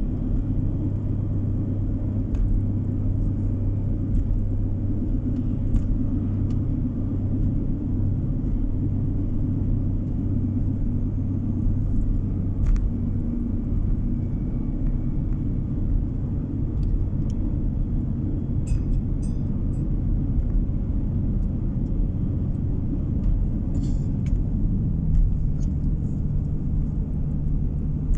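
A car driving steadily: a continuous low engine and road rumble with a steady hum, the hum's pitch stepping up near the end.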